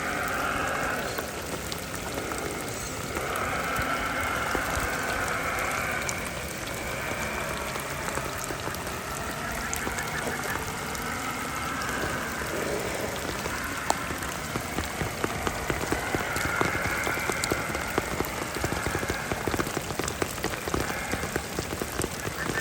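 Steady rainfall, with sharp drop hits that come thicker in the second half.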